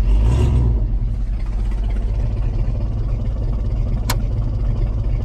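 Pickup truck engine idling steadily, with a brief louder swell in the first second. Two sharp clicks sound about four seconds in and near the end.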